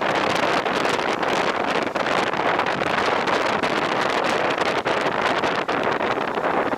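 Steady wind noise rushing over the microphone, with frequent brief crackles from gusts hitting it.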